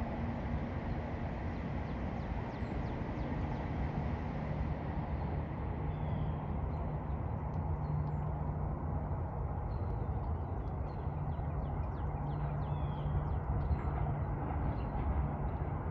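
Steady low rumble of an approaching passenger train's locomotive, with small birds chirping now and then in the second half.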